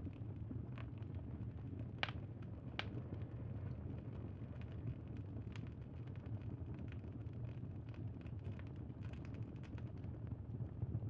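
Campfire crackling: a steady low rumble with irregular small pops and snaps, two sharper pops about two to three seconds in.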